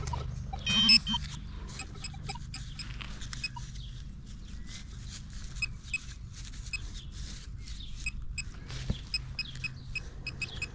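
Loose soil and grass roots from a freshly dug plug being broken up and sifted by hand, giving many small scratching and crumbling ticks, with a louder rustle about a second in.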